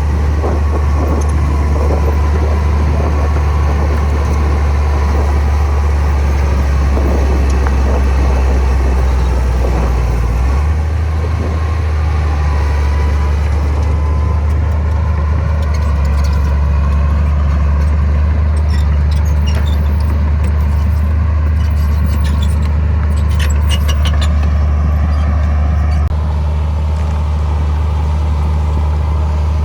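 Heavy diesel engine of earthmoving machinery running steadily under load, its low drone shifting slightly about a third of the way in and again near the end. Metallic clinks and rattles come in a cluster past the middle.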